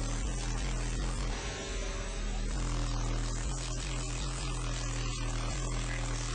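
A wall of four 15-inch Memphis MOJO subwoofers playing a steady, very low bass tone at high excursion, heard as a loud buzzing hum that dips briefly about a second and a half in.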